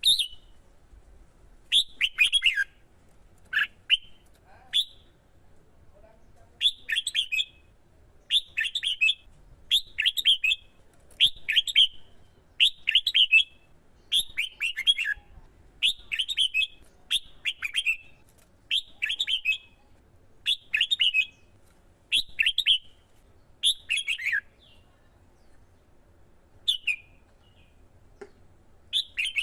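Red-whiskered bulbul singing: a run of short, quick warbled phrases about once a second, thinning out to a few scattered phrases near the end.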